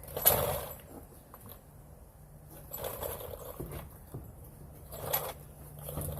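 A few short knocks and scrapes from hands-on work on the truck's rear suspension, the loudest about a quarter second in and others near the middle and the end.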